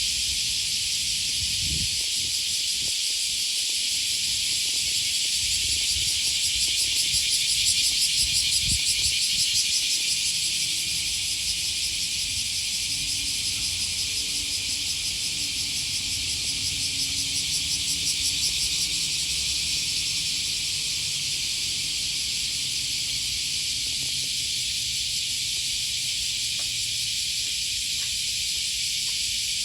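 Cicadas singing in a dense chorus: a steady high buzz with a fast pulse, swelling louder twice.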